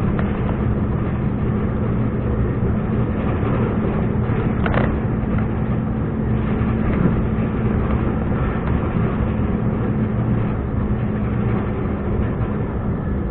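Scania R420 truck's six-cylinder diesel running steadily under way, a constant low drone. A brief higher hiss about five seconds in.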